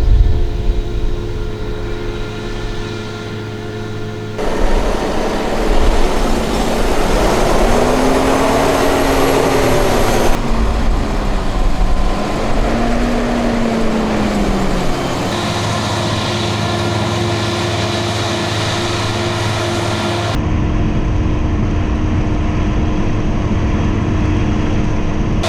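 Big farm diesel engines of a forage harvester and tractors running under load during silage chopping, a steady heavy drone. Partway through, one engine's pitch rises and falls a few times, and the sound changes abruptly several times.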